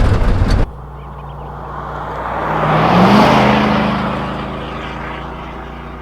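A motor vehicle driving past: its engine and road noise swell to a peak about three seconds in, the engine note rising as it comes, then fade as it moves away. Before that, a loud burst of noise cuts off abruptly under a second in.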